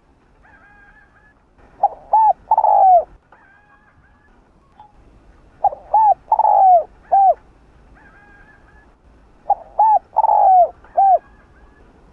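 Spotted dove cooing its song three times, about four seconds apart. Each phrase is a few short coos and one longer coo that falls in pitch. Fainter, higher calls come between the phrases.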